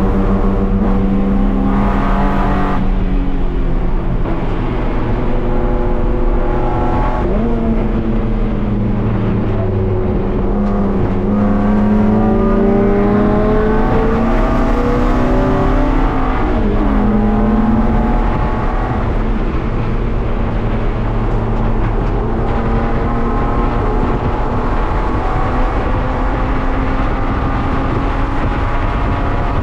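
BMW E36 race car's engine under hard running, heard from inside the stripped, roll-caged cabin, its note climbing and dropping repeatedly with gear changes and lifts, with a clear drop and jump about two-thirds of the way through. Road and wind noise run under it.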